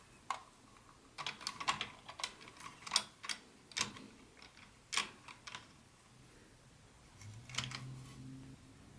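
Irregular sharp clicks and taps of plastic HO-scale model train pieces and their packaging being handled, clustered in the first half. A short low hum comes in near the end.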